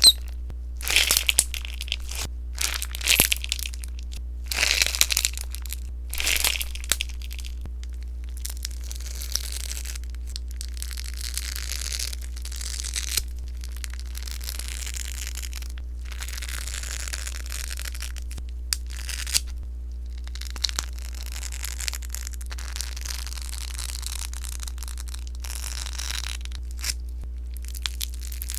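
Sponge slime being squeezed and worked by hand, popping and crackling. It starts with loud bursts of crackle for the first several seconds, then settles into a softer, steady crackle with scattered sharp pops.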